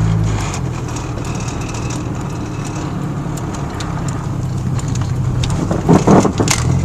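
Truck engine running with a steady low hum that fades back for a few seconds and then returns, with a short, louder clatter about six seconds in.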